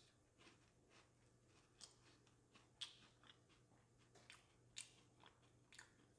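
Faint crunching and chewing of a crisp fudge-striped cookie: irregular crisp crunches, several of them about every half second to a second.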